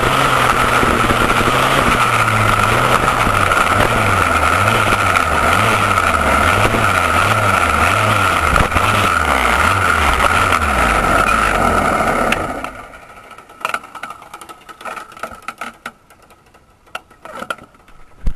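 McCulloch MC91 two-stroke kart engine with expansion pipe running at a steady pitch, then cutting off sharply about twelve seconds in; after that, quieter scattered clicks and rattles.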